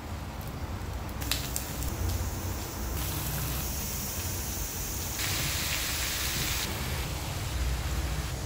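Food sizzling in oil in a frying pan: a steady hiss that shifts abruptly in brightness several times, with a couple of light clicks about a second in.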